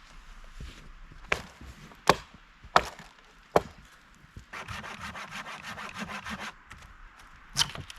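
Deadwood being worked by hand: four sharp cracks of sticks snapping over the first few seconds and another near the end, with about two seconds of fast rasping sawing through wood in between.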